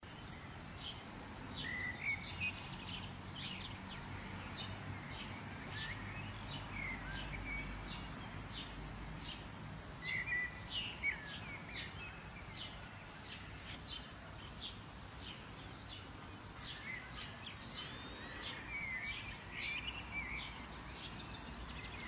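Birds chirping: many short, sharp chirps with a few lower, curving calls among them, over a steady low rumble of outdoor background noise.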